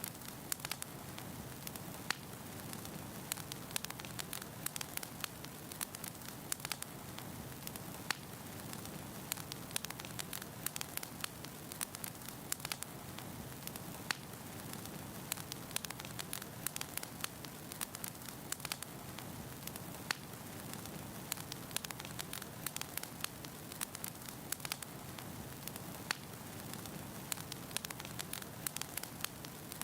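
Firewood burning in a fireplace, crackling: a steady hiss with frequent sharp, irregular pops and snaps.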